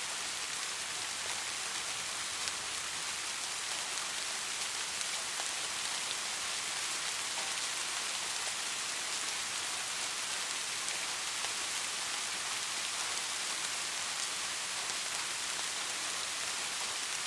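Steady rain falling, an even hiss of many drops with faint scattered ticks of individual drops hitting a surface.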